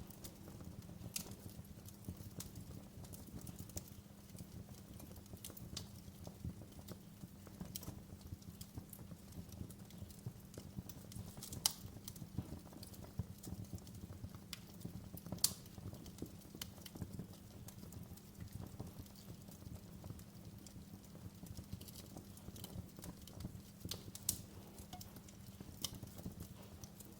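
Wood fire in a fireplace crackling, with irregular sharp pops over a steady low rumble of the flames; the loudest pops come about 12 and 15 seconds in, and another near the end.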